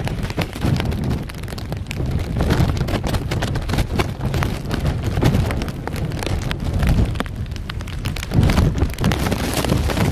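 Rain falling, a dense spatter of drop hits, with gusting wind rumbling on the microphone.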